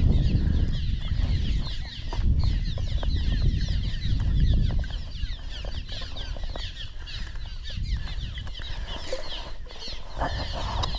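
A large flock of small birds nesting on a bridge chattering nonstop, a dense stream of quick downward-sliding chirps, over gusty wind rumbling on the microphone.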